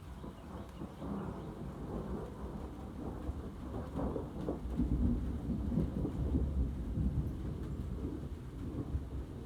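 Thunder rumbling and rolling, building about a second in, loudest in the middle and easing off near the end.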